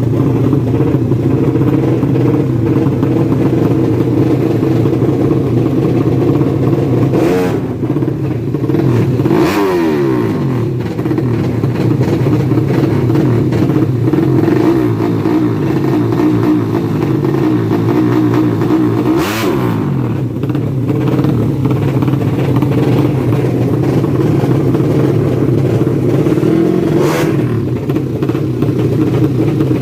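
Four-stroke drag-racing moped engines running steadily. A few times a louder bike sweeps through with a sharply falling pitch.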